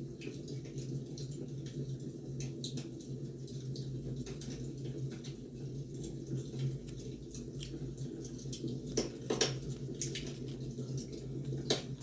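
Wood fire crackling: irregular sharp pops and snaps over a steady low hum, with a few louder pops about nine seconds in and again near the end.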